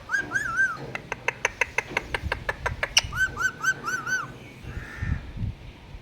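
A pet parrot making a run of sharp clicks, about five a second, with short arched chirping notes repeated in quick runs: about three near the start and about five more a little after the clicks.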